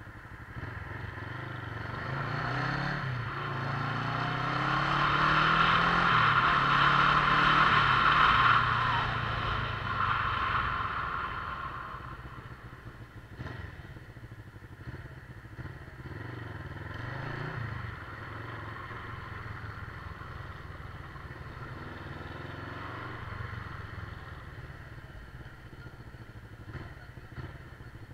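Motorcycle engine heard from the bike while riding, its pitch rising and falling with throttle and gear changes. A rush of wind and road noise swells over the first few seconds, is loudest about a quarter of the way in, and eases off by about twelve seconds.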